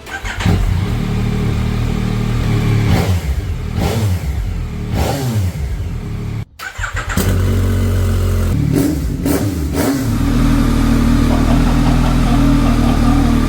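Car engine and exhaust being revved: several rev sweeps, each rising and then falling away, then a brief cut-out about halfway through, and after it a steady loud drone at held revs.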